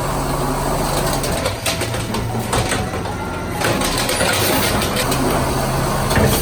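Garbage truck engine idling, a steady low hum.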